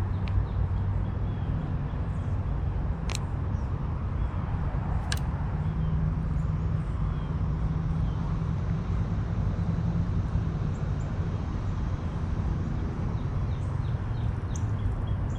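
Outdoor ambience: a steady low rumble with faint bird chirps, and two sharp clicks about three and five seconds in.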